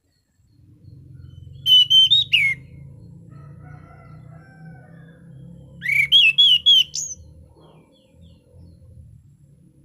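Anis cendana thrush singing in its clear 'ngeplong' style: two short phrases of loud, clear whistled notes about three seconds apart, the second ending on a higher upslurred note. Softer notes come between the phrases, with a faint low rumble underneath.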